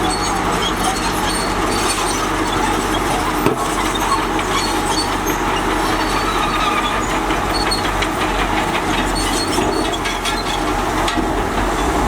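Crawler bulldozer working: its diesel engine runs steadily under load while the steel tracks clank and rattle, with a sharper knock about three and a half seconds in.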